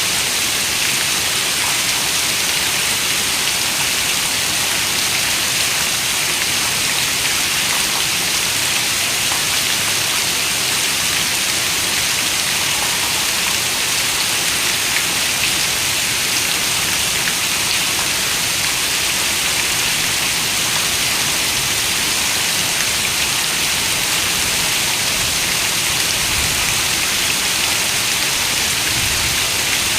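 Heavy rain falling steadily, a dense unbroken hiss of drops with faint individual drop ticks here and there.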